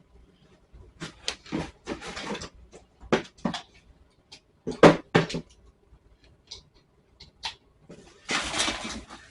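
Plastic parts of a pet water fountain clicking and knocking as they are handled and fitted together, with short rustles between the knocks. Near the end comes a steady hiss lasting about a second.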